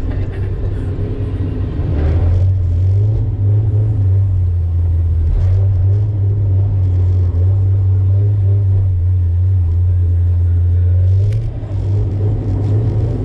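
Mazda MX-5 NB engine heard from inside the cabin, pulling at steady raised revs as a deep, even drone that picks up about two seconds in and eases off briefly near the end.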